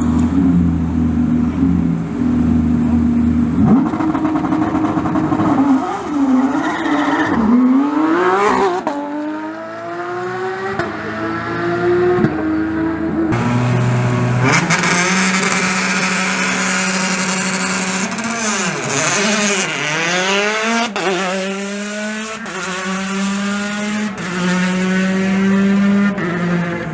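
Rally car engines at a stage start: idling steadily, then revving and accelerating hard away, the engine pitch climbing and dropping back again and again through the gear changes. Several cars, one after another.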